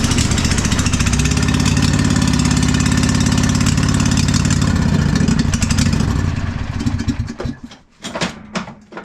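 Husqvarna riding mower engine running steadily, then dying away about seven seconds in, followed by a few sharp knocks. The engine is not running right and is backfiring a little, which a tune-up is meant to cure.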